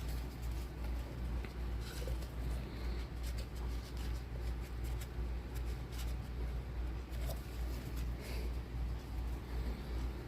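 Faint handling sounds, light taps and rustles scattered throughout, over a steady low electrical hum.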